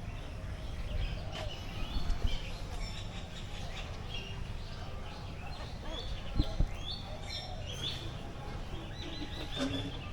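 Many small birds chirping and calling at once in an aviary, short repeated high chirps throughout. A couple of brief thumps, about two seconds in and again past six seconds, stand out above them.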